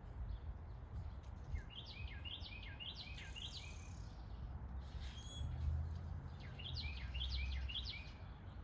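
A songbird singing two phrases, each a quick run of about seven falling whistled notes, with a short higher call between them, over a steady low outdoor rumble.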